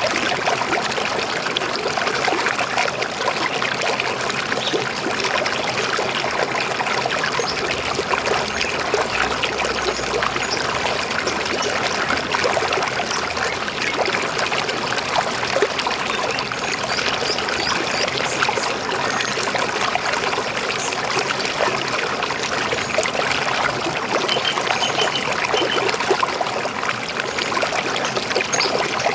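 River water flowing and trickling steadily over rocks, an even, continuous rush.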